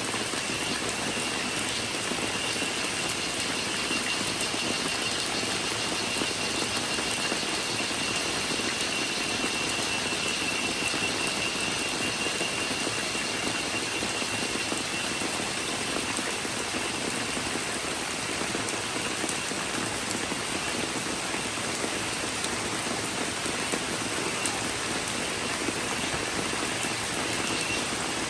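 Steady rain falling in a rainforest, an even hiss, with a thin, high, steady cicada drone over it that fades out about halfway through.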